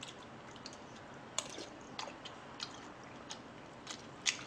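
A person chewing spicy-pork fried rice close to the microphone, with scattered soft clicks and smacks about every half second, the loudest near the end.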